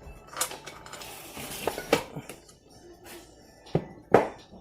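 Metal engine timing parts clinking and knocking together as they are handled: a handful of sharp clinks spread out, the loudest near the end.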